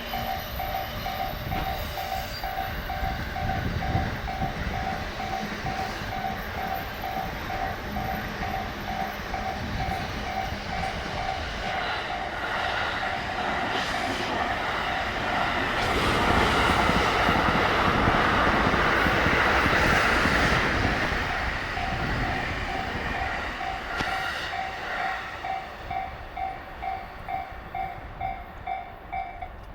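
A Japanese level-crossing alarm rings steadily at about two strikes a second while a JR 285 series Sunrise Express electric sleeper train passes over the crossing. The train's running and wheel noise builds to its loudest around the middle, drowning out the alarm, then fades as the alarm is heard again.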